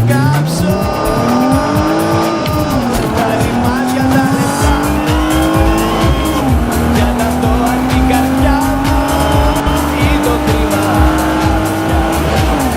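Seat Cordoba 2.0-litre E-MPI petrol engine under full-throttle acceleration: its note climbs steadily in each gear and drops sharply at three upshifts. The exhaust is loud on acceleration, a noise the owner means to cure with a proper exhaust system. Dance music with a steady beat plays over it.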